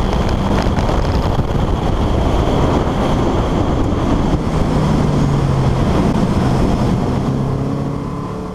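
1987 Porsche 944's 2.5-litre naturally aspirated four-cylinder engine running at speed on track, with wind noise on the microphone; the sound fades out near the end.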